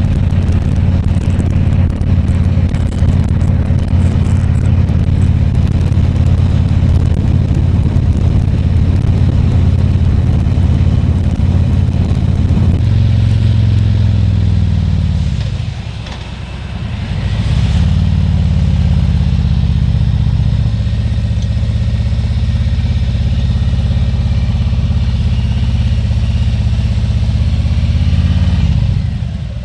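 Harley-Davidson Tri Glide Ultra's Milwaukee-Eight 114 V-twin engine running under way, with a steady, deep exhaust note. About halfway through the note falls away as the trike slows, then picks up again as it accelerates, and it dips once more near the end.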